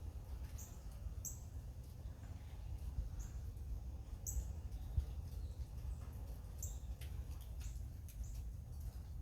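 Small birds chirping with short, high calls that drop in pitch, a few times every couple of seconds, over a steady low rumble.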